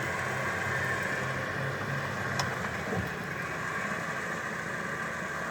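Off-road vehicle engine idling steadily, with a short click about two and a half seconds in and a knock about half a second later.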